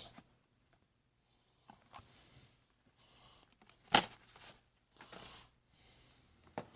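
Die-cast toy cars being handled between showings: faint rustles and light clicks, with one sharp click about four seconds in and another near the end.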